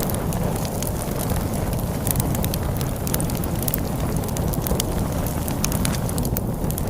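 Wood fire crackling with frequent sharp pops and snaps, over a steady low rush of storm wind.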